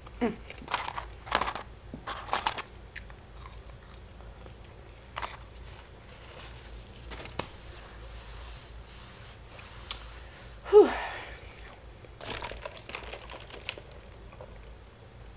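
Close-up mouth sounds of eating: chewing with scattered wet clicks and smacks, busiest in the first few seconds. About eleven seconds in comes one short, loud, voice-like sound that slides down in pitch, followed by a sip of soda through a straw.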